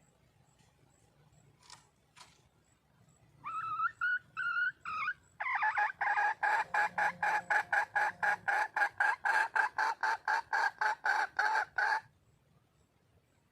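Red junglefowl hen calling for a mate: a few short separate calls, then a fast, even run of clucking notes, about three a second for some six seconds, which stops abruptly.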